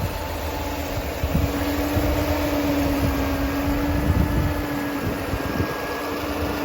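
Mercedes 500SL's M119 5.0-litre V8 idling smoothly with a steady hum, with wind buffeting the microphone in irregular low gusts.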